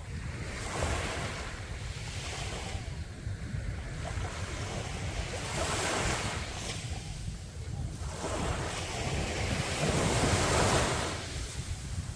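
Sea waves breaking and washing up a beach in slow surges every few seconds, the largest swell about ten seconds in, over a steady low rumble.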